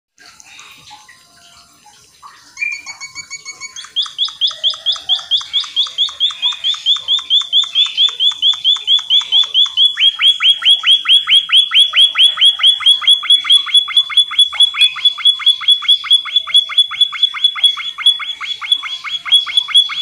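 Bird call: a long, fast run of short, upward-sweeping whistled notes, about six a second. It starts briefly about two and a half seconds in, then becomes loud and steady from about four seconds on.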